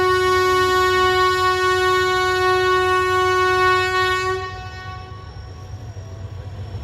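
Train horn sounding one long, steady blast that ends about four seconds in, over the low rumble of the train running.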